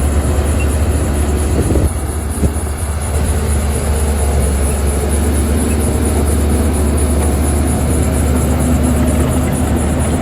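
Diesel engine of heavy earth-moving machinery running with a steady low drone, and one short knock about two and a half seconds in.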